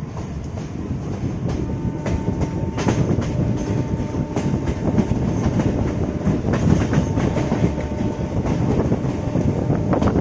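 Electric multiple unit (EMU) local train running along the track, its wheels clicking over the rail joints under a dense rumble. A steady high whine sounds from about a second and a half in until near the end.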